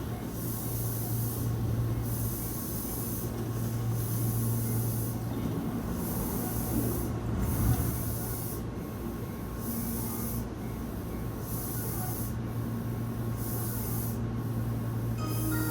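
Tobu Tojo Line electric train at the station platform: a steady low electrical hum, with a high hiss that comes and goes about once a second and a brief louder swell about halfway through.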